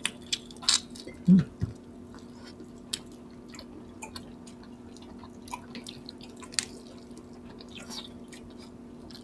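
Two people biting boiled native chicken off the bone and chewing close to the microphone: scattered wet mouth clicks and smacks, with a short low "mm" about a second in, over a steady low hum.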